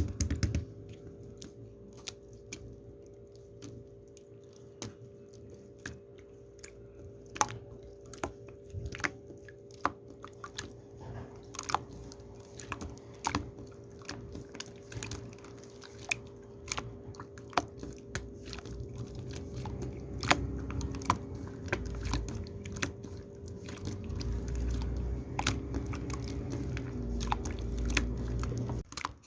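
Scattered sharp clicks and crunchy taps, irregular and a few a second, over a steady low electrical hum; a low rumble comes in during the last few seconds.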